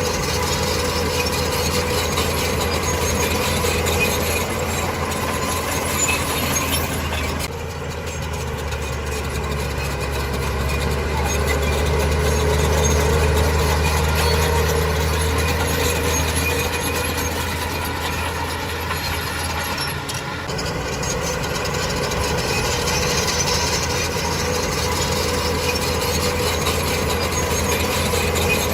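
Diesel engine of heavy earthmoving machinery running steadily, with a low drone. The sound changes abruptly twice, about a quarter and about two-thirds of the way through.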